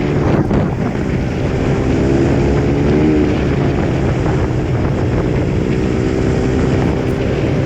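Pit bike engine running under way, its pitch rising and falling briefly about three seconds in as the throttle changes.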